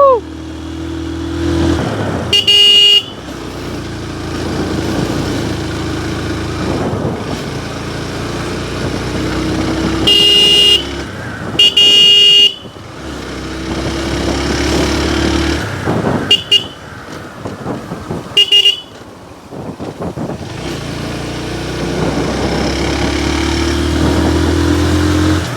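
Motorcycle engine running on the road, its pitch climbing and dropping several times, with vehicle horn honks: a short honk about two seconds in, two longer ones around ten and twelve seconds in, and two quick beeps a few seconds later.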